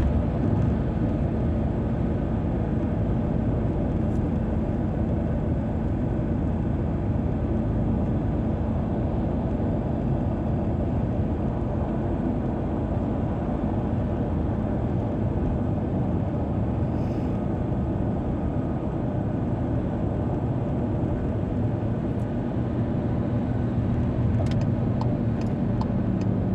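Steady road and engine noise of a car driving along a highway, a low even rumble with a faint constant hum.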